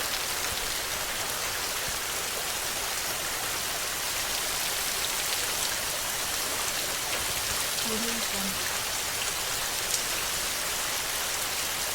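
Steady rain falling and pattering on a surface, a dense, even hiss. About eight seconds in comes a brief cluster of short low tones, and near the end a single sharp tick.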